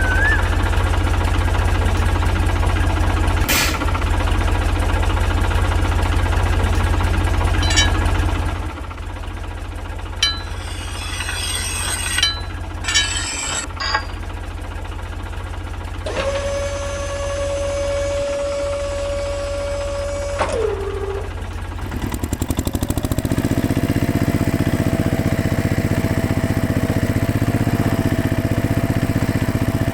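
Small motor of a DIY model tractor running steadily, with a hum that stops about nine seconds in. A few clicks follow, then a held tone that ends with a short drop in pitch. From about two-thirds of the way through, a motor runs steadily again.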